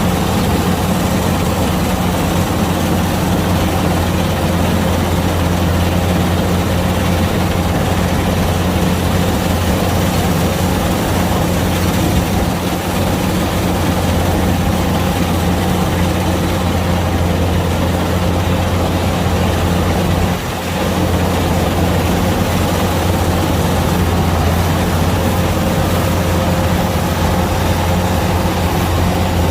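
Kubota DC-105X combine harvester's diesel engine and threshing machinery running steadily at working speed, a deep even hum over a broad mechanical rush, with a brief dip in level about two-thirds of the way through.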